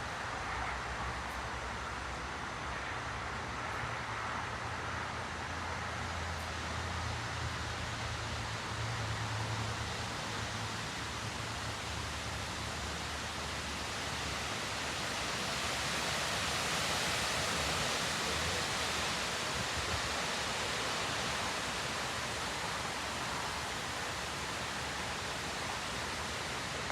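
Thunderstorm gust-front wind rushing through the treetops in a continuous roar, swelling louder for several seconds past the middle.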